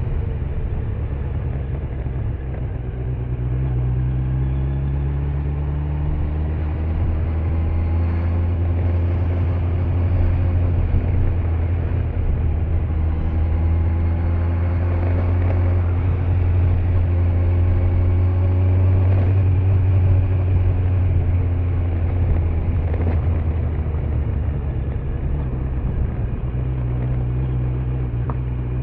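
Kawasaki Z900's inline-four engine running under way at road speed, its pitch rising and falling gently with small changes of throttle, over steady road and tyre noise.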